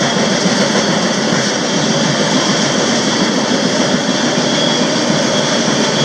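Freight train rolling at speed, heard from the end platform of a railcar: a loud, steady roar of wheels and cars on the rails.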